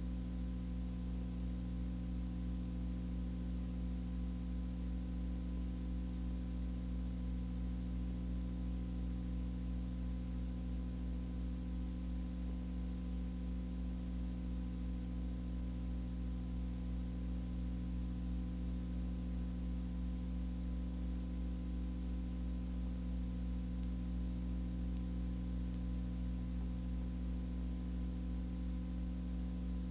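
Steady low electrical hum with a stack of overtones under a constant hiss, unchanging throughout.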